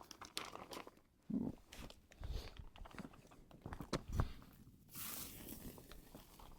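Scattered light knocks and clatter of cooking gear being handled, then about five seconds in a steady sizzle starts as steak cooks in butter.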